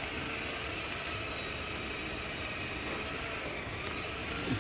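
Car engine running steadily at idle with a steady hiss, during an engine carbon-cleaning treatment.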